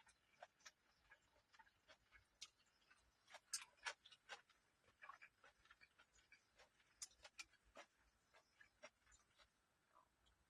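Faint, irregular clicks and smacks of someone eating a meal.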